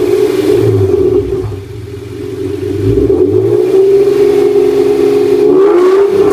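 1996 NSX's V6 engine breathing through an aftermarket header, high-flow catalytic converter and exhaust, revving. The revs drop about a second and a half in, climb back and hold high, and rise again near the end.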